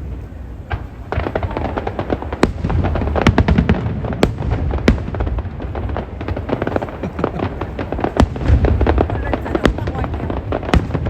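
Aerial fireworks display: a continuous low rumble with many sharp bangs and rapid crackling from bursting shells.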